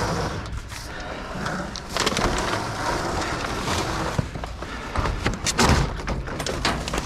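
Discarded doors being pulled and shifted about in a dumpster: irregular knocks, clatters and scraping, with a cluster of sharp knocks about five to six seconds in.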